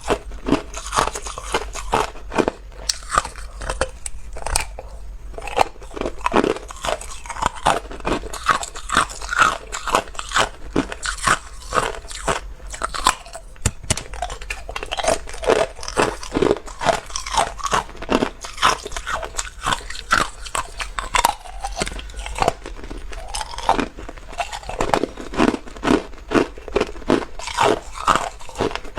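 A person biting and chewing hard ice cubes close to the microphone: crunch after crunch, several a second, without pause.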